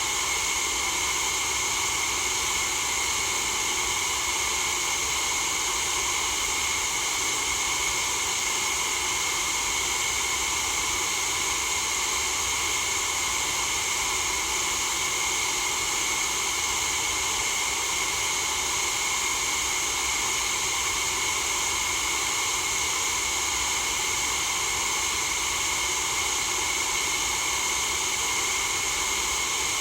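Steady, unchanging white noise hiss, strongest in the upper range, with no breaks or changes in level.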